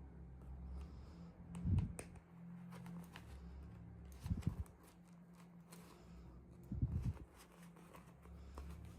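Hands handling small objects: scattered light clicks and taps, with three dull thumps about two and a half seconds apart, over a steady low hum.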